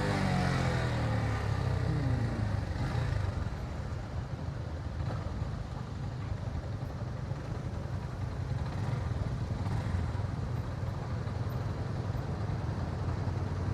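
Motorcycle engine slowing down, its pitch falling over the first couple of seconds, then running at a low, steady rumble.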